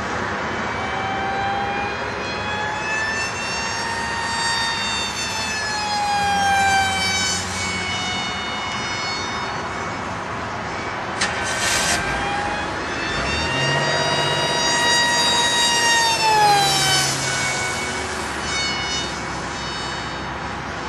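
Electric RC flying wing in flight: its brushless motor and propeller whine, rising and falling in pitch several times as it passes and the throttle changes.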